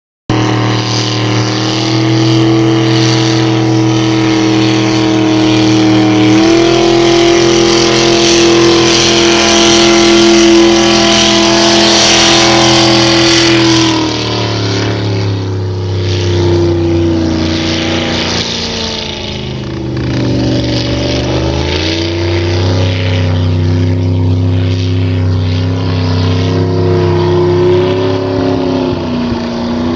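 Race boat's engine running loudly at a steady speed, its pitch stepping up about six seconds in and dropping back around fourteen seconds, then rising and falling as the throttle is worked.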